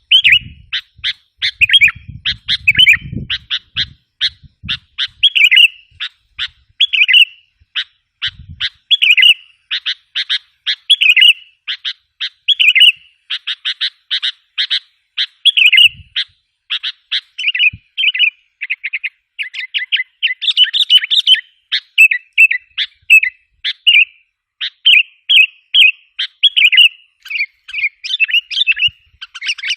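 Sooty-headed bulbuls calling: a loud, dense run of short chirping notes, several a second without a break. It is a kutilang lure call of the kind played to agitate and draw in wild bulbuls.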